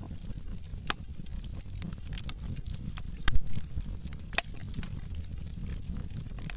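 Wood logs burning in a fireplace, crackling with frequent sharp pops over a steady low rumble of the flames. One louder pop comes about three seconds in.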